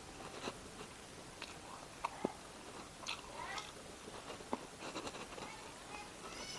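A person chewing a mouthful of food close to the microphone: soft, scattered mouth clicks and small crunches at a low level.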